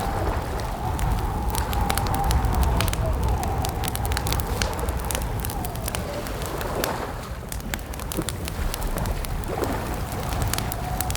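Campfire crackling with many sharp pops over a steady low rumble, with a thin wavering whistle that fades out mid-way and returns near the end.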